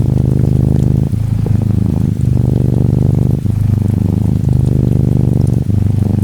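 Norwegian Forest Cat kitten purring steadily, the purr shifting with each breath in and out about once a second, over the soft hiss of gentle rain.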